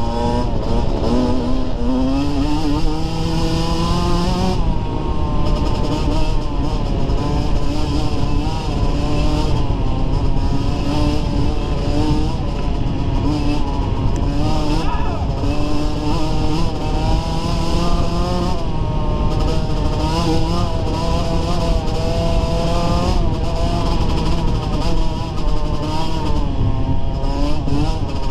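Dirt bike engine running under load on a trail ride. Its pitch climbs and drops again and again as the throttle opens and closes through the gears.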